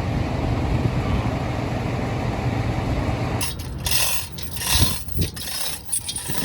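A steady low rumble that stops abruptly about halfway through. It gives way to sharp metallic clinks, knocks and scrapes of tools and parts being handled on a truck.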